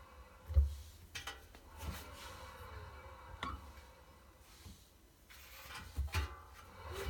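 Drum of a Miele WT1 washer-dryer squeaking as it turns, with several knocks at irregular intervals. The owner is unsure whether this points to bearing damage or is normal.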